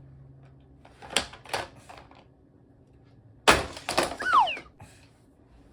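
Plastic toy clatter from a Hot Wheels monster truck run on a plastic loop track: a few light clicks, then about three and a half seconds in a loud burst of knocks and rattling as the truck slams along the track, with a brief falling tone.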